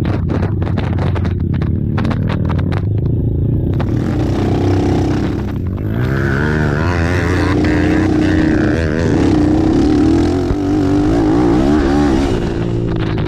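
Racing ATV engines running and revving, their pitch rising and falling rapidly over a steady low drone.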